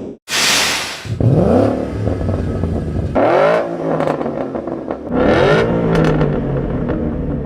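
Ford Mustang GT 5.0-litre V8 through a Borla exhaust, revved and accelerating in three separate pulls, each rising then falling in pitch. A short hissing rush comes just before the first.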